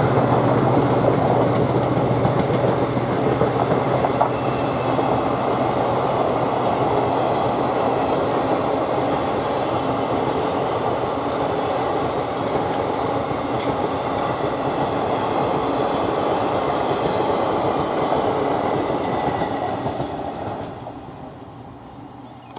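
Passenger train rolling past on the rails, a steady rumble and clatter of coach wheels, then fading away about twenty seconds in.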